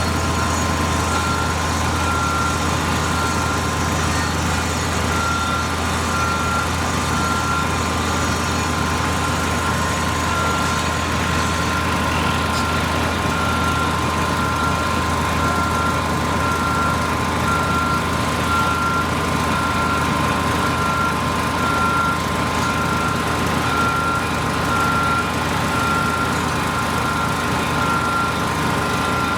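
Heavy construction machinery running steadily with a low engine hum, and its backup alarm beeping about once a second, pausing briefly near the middle.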